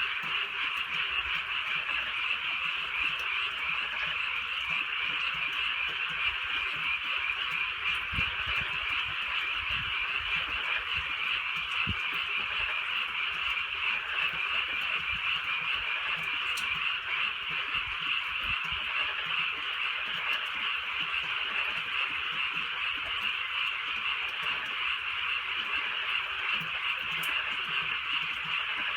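A dense chorus of many frogs calling at once, merging into a continuous, steady trilling that never pauses.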